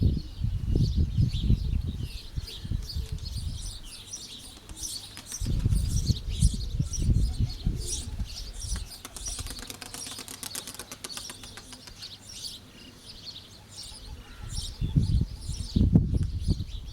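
Wind gusting against the microphone in rumbling spells, with pigeons' wings flapping in a rapid run of clicks about ten seconds in and birds chirping throughout.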